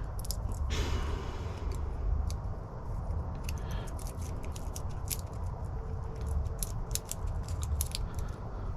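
Quick, irregular small metallic clicks and scrapes of a shim being worked into a Defiant lock cylinder, with a key blank inserted, to free the pins, over a steady low rumble.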